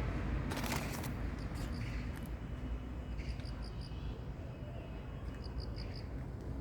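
Groups of three or four quick high chirps, repeated about every two seconds, over a steady low rumble, with a few clicks about half a second in.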